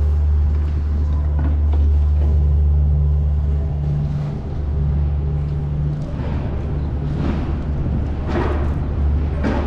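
Steady low rumble of city traffic and wind on the microphone of a moving bicycle, with a few short hissing swells in the second half.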